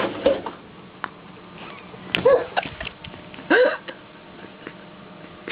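A person's short strained vocal sounds, a few brief grunts or whimpers with pitch that rises and falls, made while straining in an awkward position.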